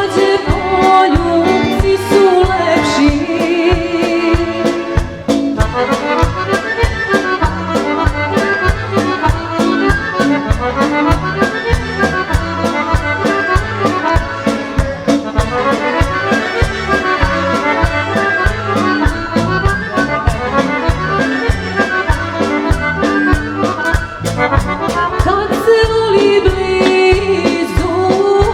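Serbian folk song with an accordion-led band over a steady beat. A woman's voice sings at the start, the accordion carries an instrumental interlude through the middle, and the singing comes back near the end.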